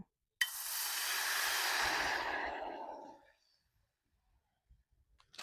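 Water poured into a frying pan on a mini gas camping stove: a hiss that starts abruptly about half a second in and fades away over about three seconds.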